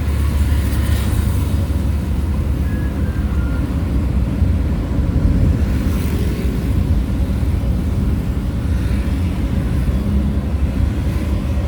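Steady low rumble and road noise of a moving vehicle, with no change through the stretch.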